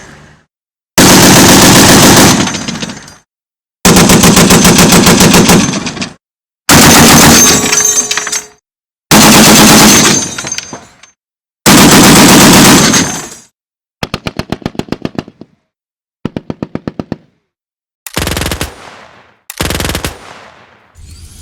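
Automatic gunfire from a .50-calibre machine gun: five loud bursts of about two seconds each, then two quieter strings of rapid separate shots. Near the end come two short bursts from a submachine gun firing on automatic.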